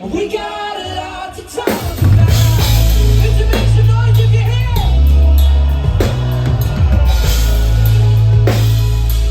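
Live band playing amplified rock music. After a quieter opening, the full band comes in about two seconds in with heavy bass and a drum kit hitting a steady beat.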